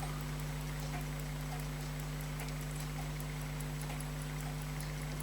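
Elgin pocket watch movement ticking in a fast, even rhythm: the balance with its newly fitted hairspring is running. A steady low hum lies underneath.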